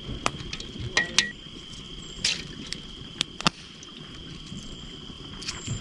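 Crickets chirring steadily at a high pitch, with occasional sharp snaps from the wood fire.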